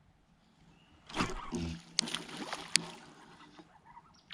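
Water splashing and hull and gear noises on a kayak as an angler sets the hook and brings in a small fish, starting about a second in, with two sharp clicks close together.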